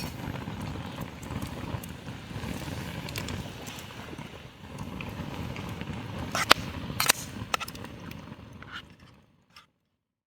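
Steady outdoor rumble with several sharp clicks or knocks about two-thirds of the way in, fading out near the end.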